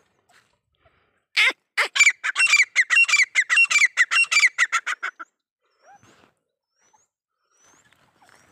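A bird calls loudly in a fast run of harsh, repeated notes, about five a second, starting about a second and a half in and stopping after about four seconds. Faint short rising chirps follow.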